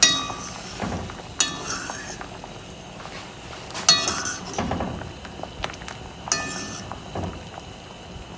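Metal cookware clinking against a cooking pot: four sharp clinks, each ringing briefly, spread over several seconds as the boiling red peas are checked.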